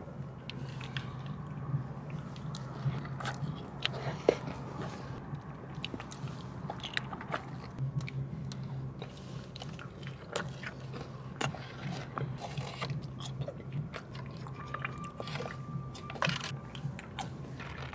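Close-up eating sounds of biting into and chewing a Taco Bell dipping burrito: many short, sharp mouth clicks and smacks throughout, over a steady low hum.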